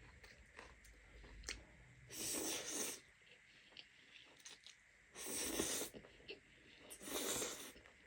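Three loud sucking draws of air through the mouth, each under a second, from someone eating fire-hot buldak ramen. Faint mouth clicks and chewing come between them.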